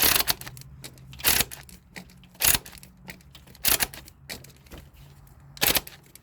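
Hand tools clicking and clattering in five short bursts about a second apart, with lighter clicks between, as a starter mounting bolt is worked into threads that the mechanic suspects are slightly cross-threaded.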